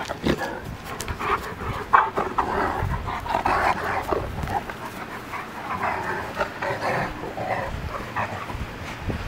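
A Newfoundland puppy and an older dog play-fighting: panting and short, rough dog noises in irregular bursts throughout.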